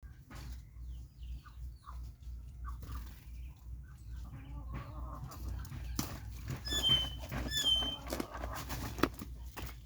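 Chickens clucking in short calls, with two higher, sharper squawks about two-thirds of the way through and a few sharp clicks, over a steady low rumble.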